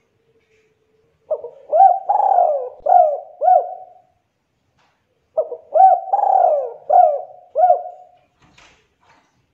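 Spotted dove (tekukur) cooing: two phrases of about five coos each, the second starting a little over a second after the first ends.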